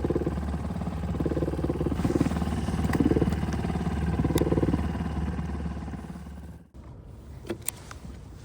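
Small two-horsepower outboard motor running steadily, then shut off abruptly about six and a half seconds in, followed by a couple of faint clicks.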